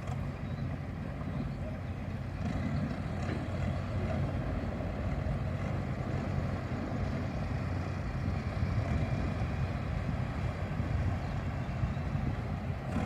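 KiHa 183 diesel railcar's engine running with a steady low drone.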